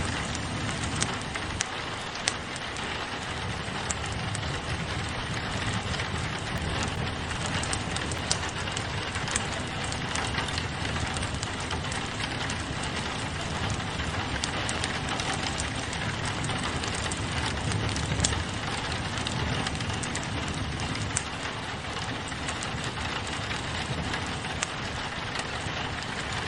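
Steady rain on a window mixed with a crackling fireplace: many scattered sharp pops over an even rush of rain and a low, uneven rumble.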